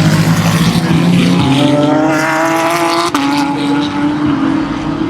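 Race car engines running on track. One engine climbs in pitch as it accelerates, then drops sharply about three seconds in as it shifts up, over the sound of other cars.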